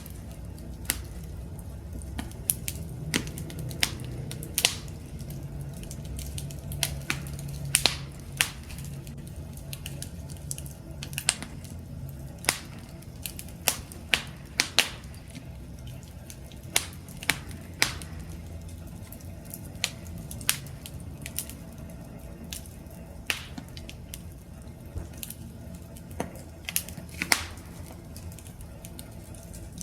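Wood campfire crackling: irregular sharp pops and snaps, about one a second, over a low steady rumble of the burning fire.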